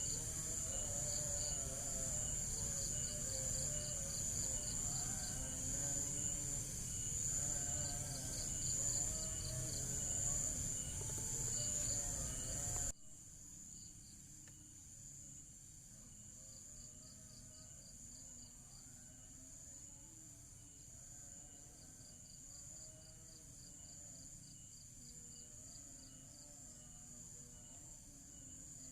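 Insects chirping steadily: a high continuous drone with a fast, evenly pulsing chirp beneath it. About thirteen seconds in, the whole sound drops sharply in level and carries on quieter.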